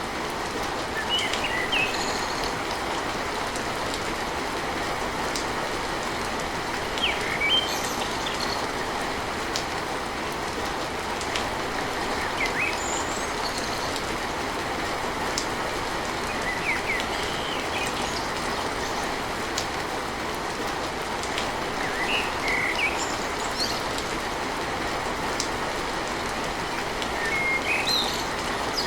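Steady rain drumming on a tin roof, with short bird chirps every few seconds.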